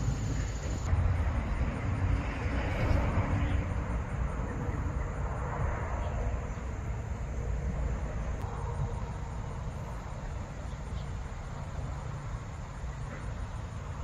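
Wind buffeting the microphone: a steady low rumble with a few gusts of rustling noise that swell and fade.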